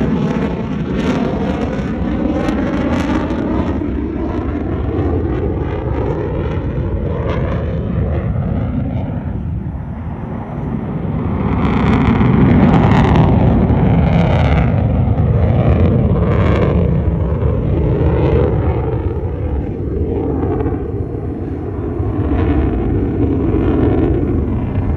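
Jet aircraft engine noise, loud and continuous, with sweeping shifts in pitch; it swells louder about halfway through.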